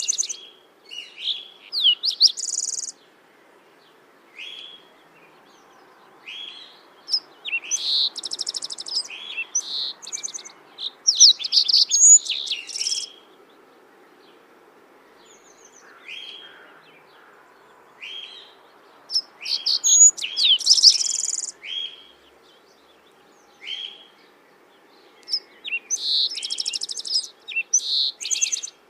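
Songbird singing in repeated bouts of rapid high chirps and trills, each a few seconds long with quieter gaps between, over a faint steady background hiss.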